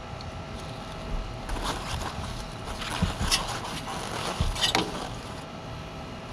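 John Deere 5075E tractor's diesel engine running steadily. In the middle there is a burst of hissing with a few sharp knocks.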